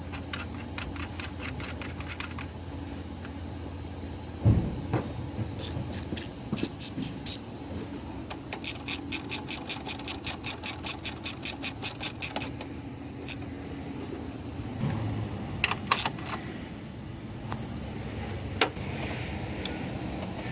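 Hand ratchet clicking in runs while a bolt is turned: a knock, a short run of clicks, then a longer run of about five clicks a second, and a few single clicks later, over a steady low hum.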